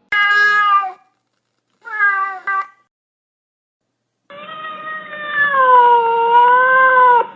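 Domestic cat meowing: two short meows, then one long, drawn-out meow lasting about three seconds.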